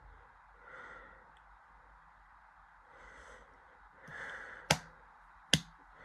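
Bridgestone Altus Newing washing machine paused between its intermediate spin and its next spin: a faint steady hum with a few soft swishes, then two sharp clicks less than a second apart near the end.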